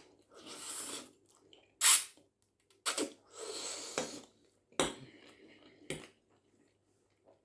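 Eating sounds of a spaghetti meal: a fork scraping and clinking against a plate in short bursts, with a loud sharp clatter about two seconds in and a few sharp clicks after it.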